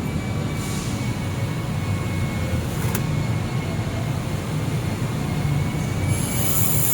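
Air-cooled handheld laser welder running with a steady low mechanical hum, and a high hiss that starts about six seconds in.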